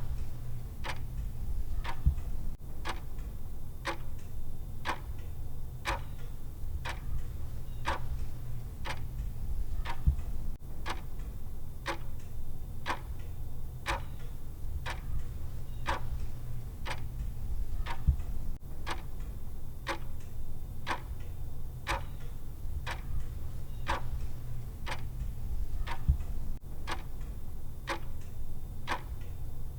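Clock tick sound effect of a countdown timer: even, sharp ticks at about one a second, over a steady low hum.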